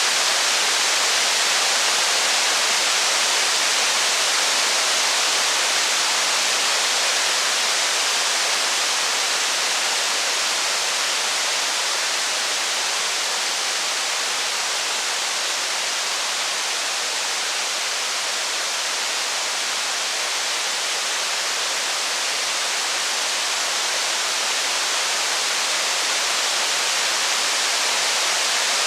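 Steady heavy rain, an even unbroken hiss with no thunder or fire crackle standing out.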